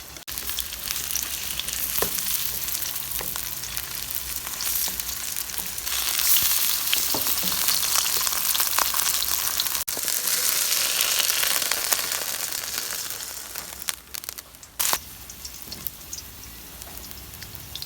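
Tempura-battered chicken pieces frying in hot oil: a steady sizzle that grows louder about six seconds in and dies down near the end, with a sharp knock a few seconds before the end.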